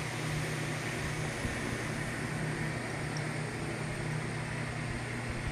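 Steady background hum and hiss with no distinct events: constant room noise from a running appliance.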